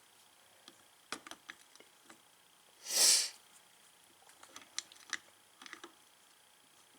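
Scattered light clicks and taps of metal starter-generator parts being handled and fitted together, with one short, loud hiss about three seconds in.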